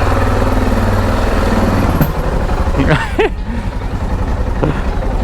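Motorcycle engine running at low revs while the bike creeps over rough cobbled pavement. A short pitched sound slides up and down about three seconds in.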